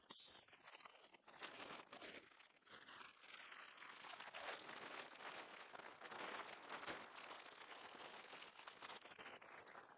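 Faint crinkling and rustling of material being handled, a dense run of small crackles.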